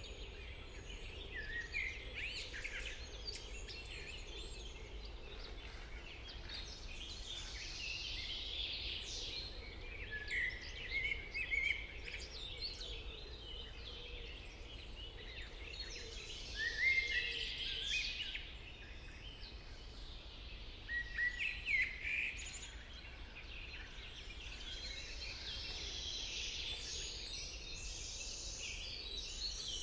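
Several songbirds singing and calling together in a dawn-chorus-like mix of chirps and warbled phrases, with louder bursts of song now and then. A steady low rumble of background noise runs underneath.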